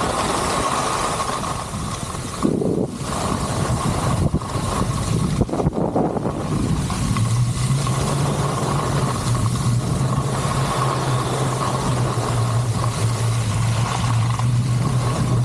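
Wind rushing over the microphone and skis sliding on snow during a downhill run, with a few short scraping bursts early on. From about seven seconds in, a steady low hum joins and holds.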